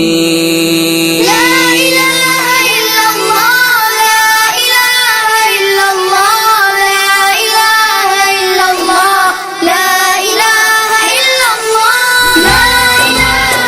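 Music: a high voice, like a child's or woman's, sings an ornamented, wavering melody over a steady low drone. A low pulsing beat comes in near the end.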